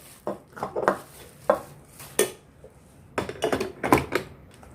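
Parts of a new coffee maker being handled and fitted into place: a few separate knocks and clicks, then a quicker run of clatter near the end.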